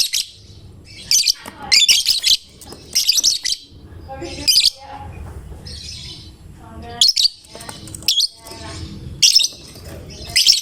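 Lovebird singing in short bursts of shrill, rapid chirping, with softer calls between them.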